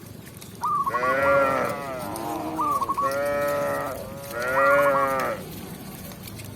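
Cow mooing: three long, drawn-out moos in a row.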